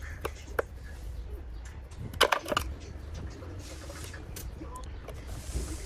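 Scattered sharp clicks and taps of small hard objects, with a short clatter about two seconds in, over a low steady hum; a brief hiss comes later.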